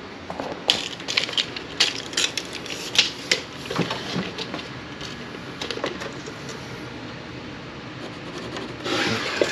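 Irregular sharp clicks and light knocks of tools and lumber being handled, thickest in the first six seconds, with a short rush of scraping noise near the end.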